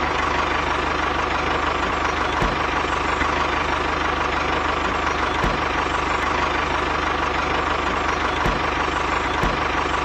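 Small engine running steadily at a constant speed, with a fast even pulsing and a few faint knocks.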